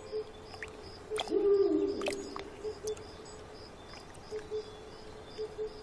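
A bird calling with short paired hoots, and one louder call about a second and a half in that falls in pitch.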